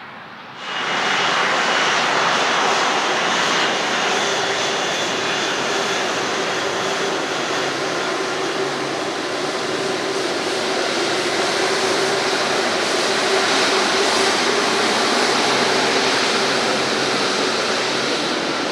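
Jet engine noise from an arriving Airbus A330-243, whose engines are Rolls-Royce Trent 700s. The noise comes in suddenly about half a second in, then holds loud and steady, with a faint steady whine running through it.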